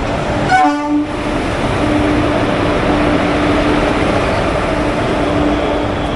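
Indian Railways express train moving along the platform track: a steady rushing rumble of the coaches, with a steady tone that comes and goes.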